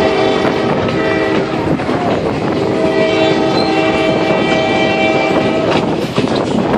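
Excursion train's locomotive horn sounding two long blasts, the first ending about a second and a half in, the second starting about three seconds in and holding for nearly three seconds, over the steady rumble of the moving train.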